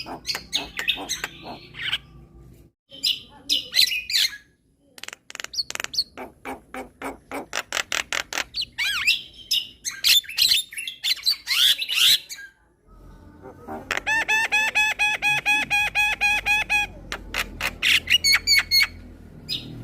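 Javan myna singing: a run of rapid clicks and harsh chattering notes, broken by short pauses. About fourteen seconds in, it switches to a fast, even run of one repeated buzzy note for about three seconds, then goes back to chattering.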